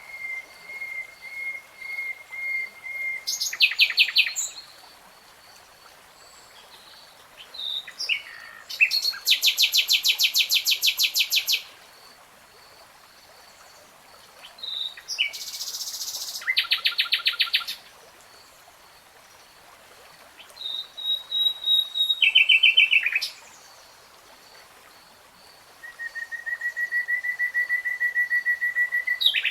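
A nightingale singing in separate phrases with short pauses between them: slow runs of repeated whistled notes that grow louder, and fast, loud rattling trills. A faint steady high-pitched tone runs underneath.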